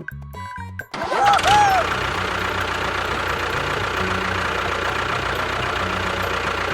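A motor starts running steadily about a second in, right after background music cuts off.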